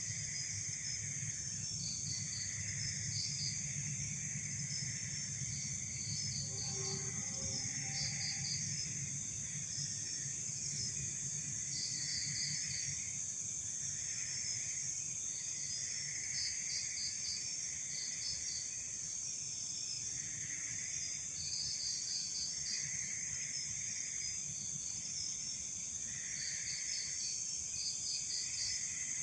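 Night insect chorus: a steady high buzzing, with crickets chirping in short repeated groups, over a low rumble that is stronger in the first ten seconds or so.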